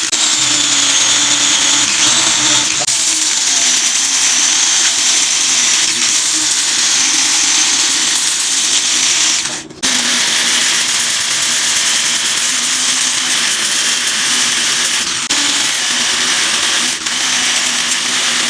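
Handheld electric power tool running steadily against the wood of a cricket bat under repair, its motor hum shifting slightly in pitch, with a brief stop just under ten seconds in.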